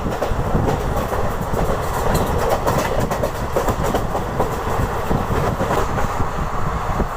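Deccan Queen express train running along the track, its wheels clattering with a steady clickety-clack over the rails amid continuous running noise.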